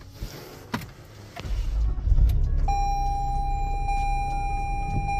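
Car engine started by push button about a second and a half in: a short crank, then a steady idle. A steady electronic warning tone from the dash comes on shortly after and holds over the idle.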